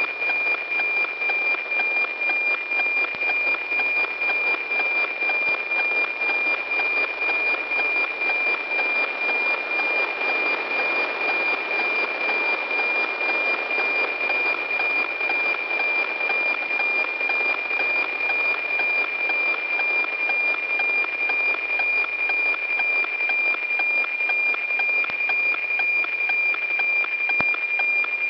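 NOAA-18 weather satellite's APT image signal received over radio: a steady high tone with a rhythmic tick-tock beat about twice a second, under a raspy hiss.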